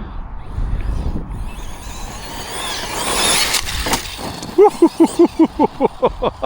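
Arrma Notorious 6S RC monster truck running flat out, its electric motor and tyres on loose ground swelling to a peak about three seconds in. Near the end comes a quick run of short pitched pulses, about five a second, louder than the run-by.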